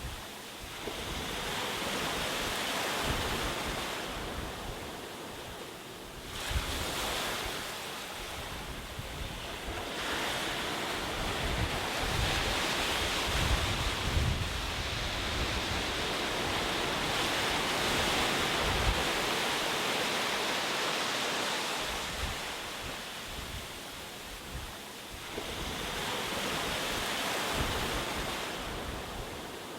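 Ocean waves washing onto a shore, the surf swelling and ebbing in slow surges several seconds long, the biggest through the middle. Wind buffets the microphone.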